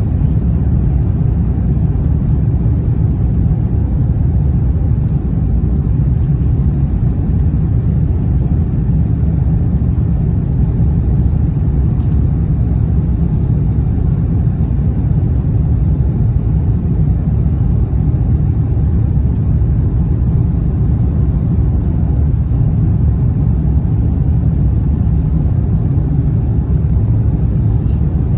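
Steady low rumble of cabin noise inside an Airbus A350-900 airliner in flight on its way in to land: the drone of its Rolls-Royce Trent XWB engines and the rush of air along the fuselage.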